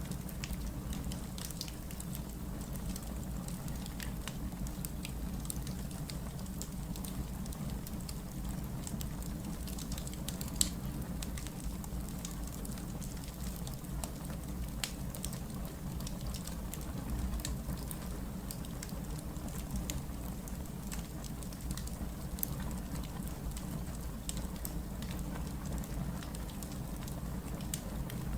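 Wood fire burning, with scattered small crackles and pops over a steady low rumble; one sharper pop about ten seconds in.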